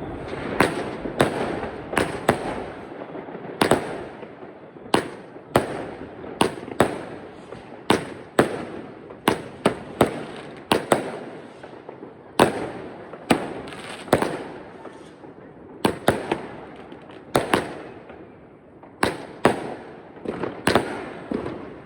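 Weco Big Surprise 51-shot firework cake firing: a rapid, irregular string of sharp bangs, about one to two a second, over a continuous hiss.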